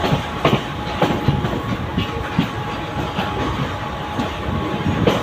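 Mumbai suburban electric local train running along the track: a steady rumble with the wheels clacking over rail joints in irregular sharp knocks.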